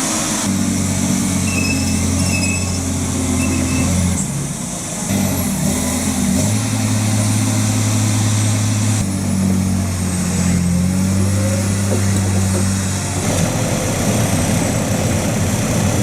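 Heavy truck engine running hard and steadily; its pitch shifts abruptly to a new level several times.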